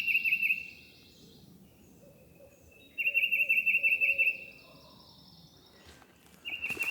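A songbird sings a short, rapid trill of repeated high chip notes, each trill about a second and a half long. One trill ends just after the start, a second comes about three seconds in, and a third begins near the end.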